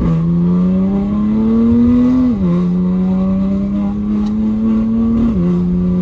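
BMW M3 F80's twin-turbo inline-six with an equal-length exhaust, pulling hard through the gears of its dual-clutch gearbox. The note climbs and then drops sharply at each upshift: three shifts, right at the start, about two and a half seconds in, and near the end.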